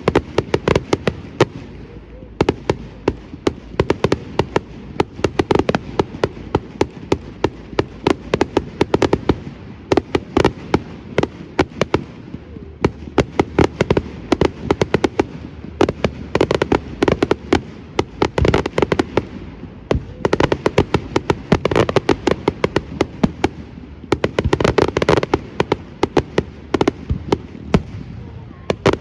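Fireworks display going off continuously: a dense barrage of bangs and crackling, swelling into heavier volleys every few seconds.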